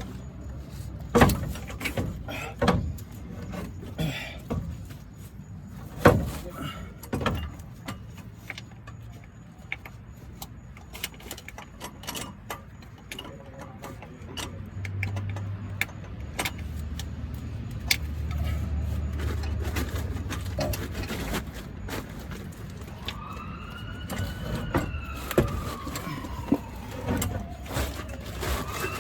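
Scattered sharp clanks and knocks, typical of tools and parts being handled, over a low rumble. About 23 s in, an emergency-vehicle siren starts wailing, its pitch rising and falling in slow repeated sweeps.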